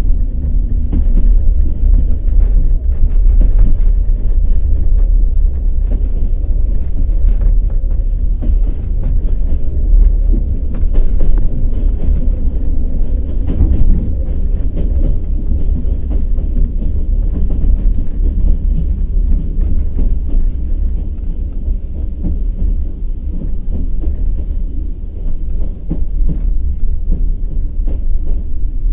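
Wheels of a passenger train running along the track: a steady, heavy low rumble with irregular clattering of the wheels over the rails.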